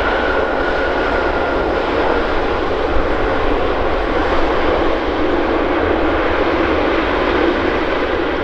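Steady jet engine noise of a Boeing 787-10 airliner on its arrival at the runway, a loud even rush with a faint high whine that fades out in the first second or two.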